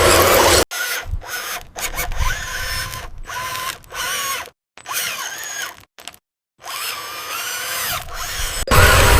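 Small electric gear motor of a mini model tractor, running with a loud steady grinding, then in a string of short quieter bursts whose whine rises and falls in pitch, each cut off abruptly, before the loud grinding resumes near the end.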